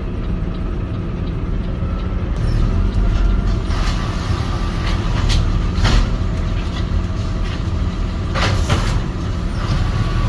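Garbage truck running with a loud, steady low rumble, broken by several short noisy bursts around the middle and near the end.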